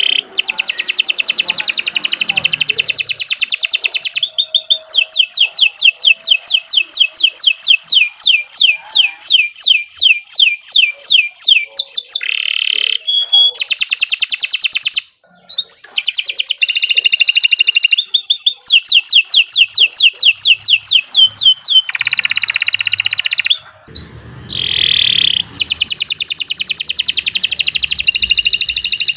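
Domestic canary singing a long, continuous song of rapid trills, each a fast run of repeated high notes held for several seconds before it switches to another, with only brief pauses.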